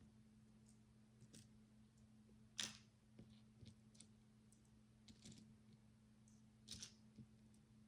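Faint, scattered clicks and taps of micro building bricks being handled and pressed together, with a sharper click about two and a half seconds in and another near the end, over a faint steady low hum.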